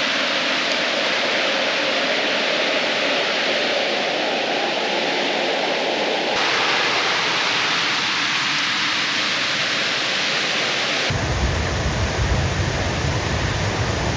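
Waterfall rushing, a steady loud roar of falling water. The sound changes abruptly twice, and a deep low rumble joins for the last few seconds.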